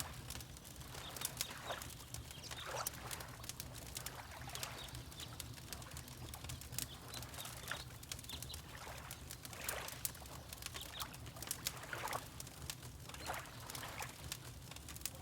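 Wood fire crackling with irregular sharp pops, over water lapping in soft swells every couple of seconds.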